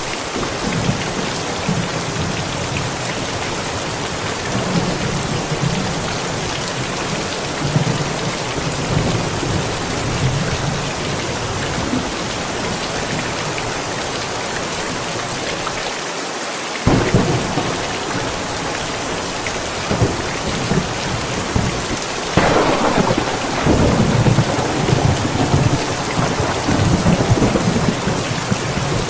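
Steady heavy rain with thunder rumbling. A new roll of thunder starts suddenly about 17 seconds in, and a sharp thunderclap about 22 seconds in is followed by rolling rumble to the end.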